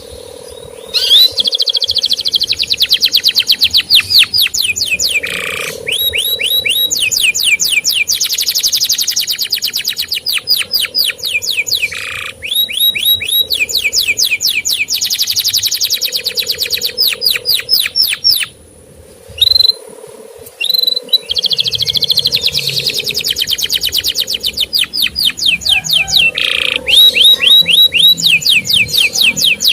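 Male canary singing long, fast trills of repeated high chirps, about ten notes a second, in runs of several seconds with short breaks between them.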